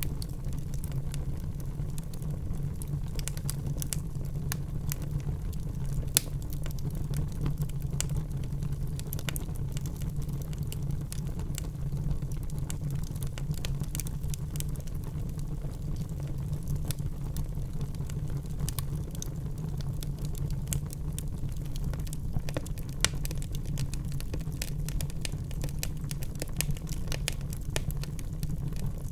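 Wood fire crackling in a fireplace: a steady low rumble with frequent small snaps and pops, two of them sharper, about six seconds in and near the end.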